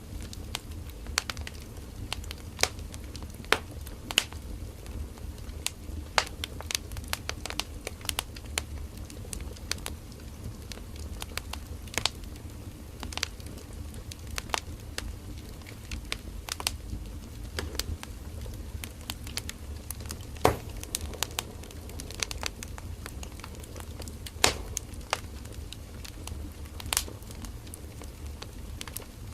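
Firewood burning, crackling with irregular sharp pops over a low steady rumble of flames; the loudest pops come about 12, 20 and 24 seconds in.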